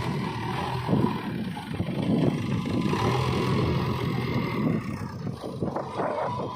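Heavy machinery's diesel engine running steadily with a faint whine above it, easing a little near the end.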